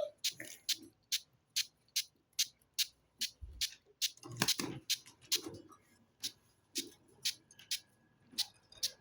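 Budgerigars making short, sharp, high chirps in quick succession, about two or three a second, with a louder flurry about halfway through.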